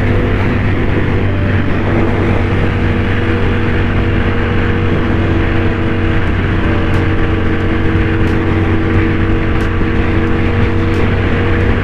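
Motorcycle engine running at a steady cruising speed, its pitch holding level, with wind and road noise, heard from on board the bike.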